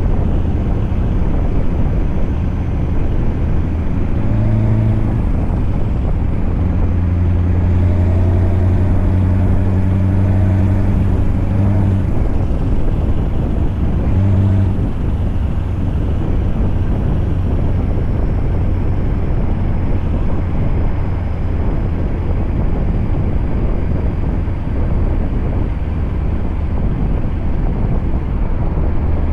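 Scania truck's engine running steadily, a low drone that grows stronger with a clear engine hum from about four seconds in until about fifteen seconds in.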